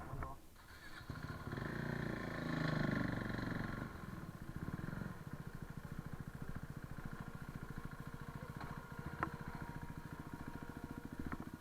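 A KTM RC390's single-cylinder engine rising briefly about a second in, then settling into a steady pulsing idle.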